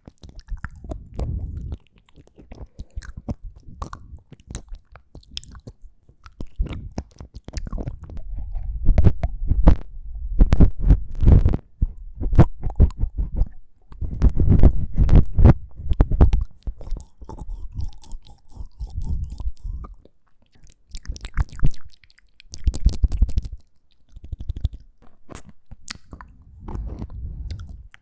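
Close-miked ASMR mouth sounds: rapid clicks and smacking noises from lips and tongue, coming in bursts with short pauses between.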